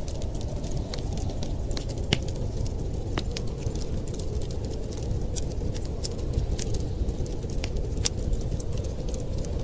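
Wood fire crackling with scattered sharp pops and snaps, over a steady low rumble of wind.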